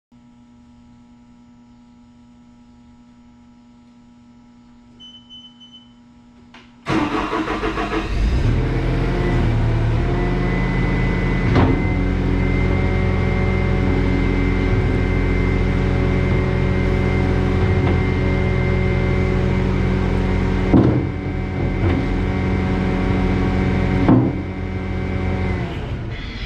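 Bobcat S850 skid-steer loader's diesel engine starting about seven seconds in, after a faint steady hum, then running steadily, with a couple of sharp knocks and brief dips in the engine note near the end.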